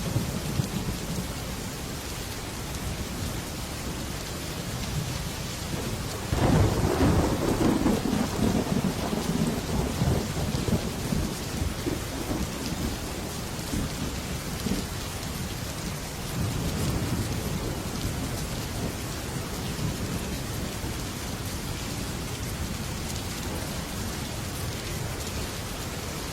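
Heavy rain pattering steadily on a metal roof. Thunder rumbles loudly from about six seconds in and fades over several seconds, with a fainter rumble some ten seconds later.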